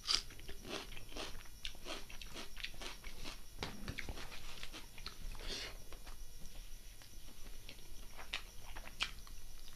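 Close-miked eating sounds: irregular chewing, crunching and wet mouth clicks, with a crisp bite into raw onion at the start.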